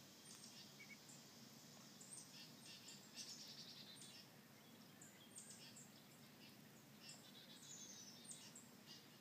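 Faint outdoor quiet with scattered short, high chirps of small birds in the background.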